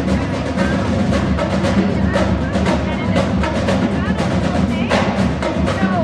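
Drums beating a fast, dense rhythm, with voices in the background.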